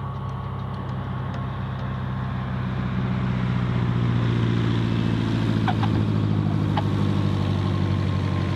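Light piston-engined propeller airplane's engine running at low, taxi-like power: a steady low drone that grows louder about three seconds in and then holds. Two or three short high squeaks come near the middle.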